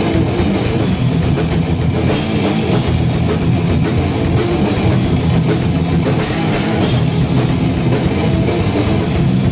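Live heavy metal band playing at full volume: distorted electric guitars over a pounding drum kit, dense and unbroken.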